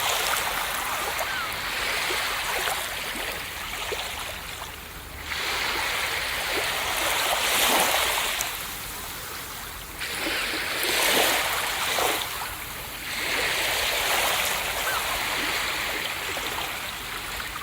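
Ocean waves breaking on a beach. A fresh wash of surf swells in every few seconds and then fades back.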